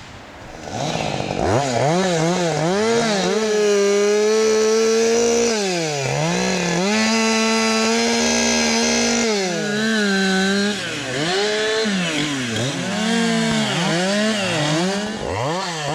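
Two-stroke chainsaw revving up and held at high speed for a few seconds at a time, dropping back and revving again, with several quick rev-ups and drops near the end.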